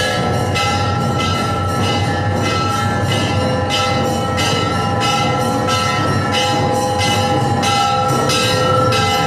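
Temple bells ringing continuously during the Hindu aarti ceremony: rapid, evenly repeated clangs over long ringing tones.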